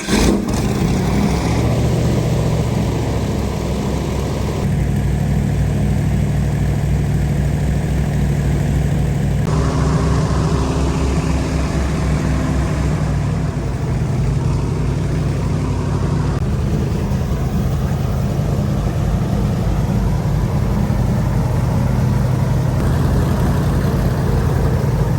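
Airboat's engine and air propeller running at speed, a loud steady drone whose pitch steps a couple of times as the throttle changes.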